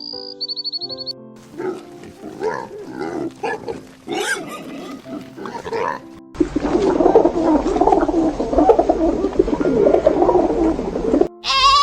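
Animal calls over steady background music: a run of short grunts, then from about six seconds in a long, loud, rough roaring call that stops suddenly near the end.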